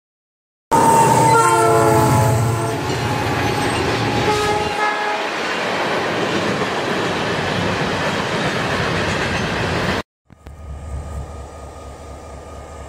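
A freight locomotive's air horn sounds a long blast and then a shorter one, over the steady noise of the train's cars rolling past. About ten seconds in the sound cuts off suddenly to a quieter low rumble from a Florida East Coast diesel locomotive and its freight train.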